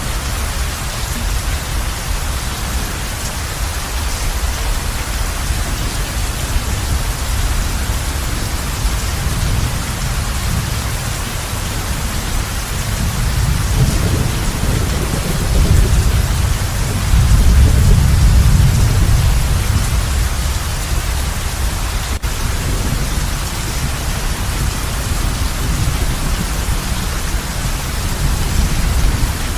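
Heavy rain drumming steadily on a roof, with a low rumble of thunder that builds about halfway through and then fades.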